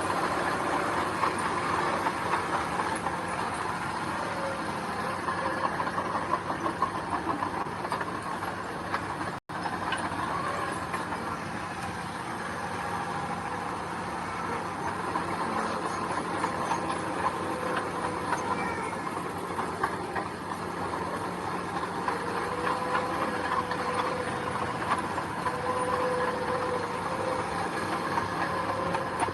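Heavy earth-moving machinery running steadily, engine sound mixed with a dense metallic rattle, with a split-second dropout about nine seconds in.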